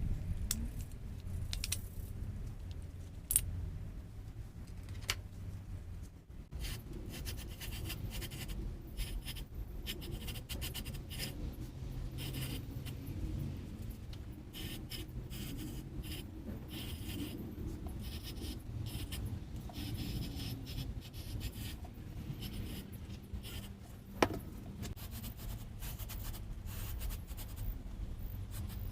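Scraping and rubbing from hands and tools at work, with a few sharp metallic clicks, over a steady low rumble.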